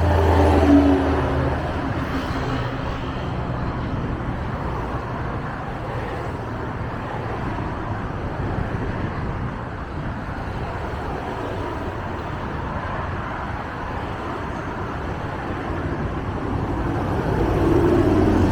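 Diesel engine of a Scania K94IB bus running, its note loudest at the start, settling to a steady rumble with road noise, then rising again near the end.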